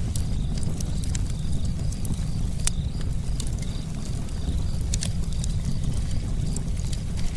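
Campfire burning with a steady low rumble and irregular sharp crackles and pops, a few louder snaps scattered through.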